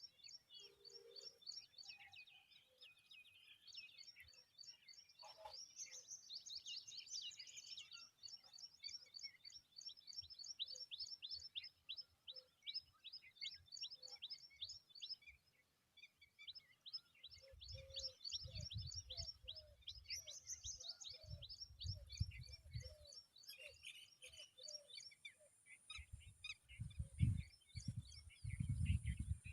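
Small bird giving long, rapid runs of high chirps, several a second, pausing briefly now and then, with low rumbling bursts in the second half.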